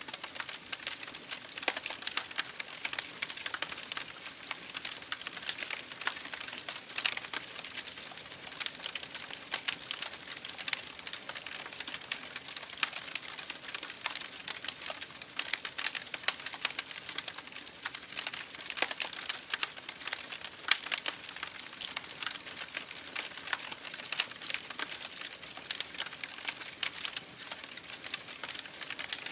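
Campfire crackling, with many irregular sharp pops and snaps over a steady babbling of creek water.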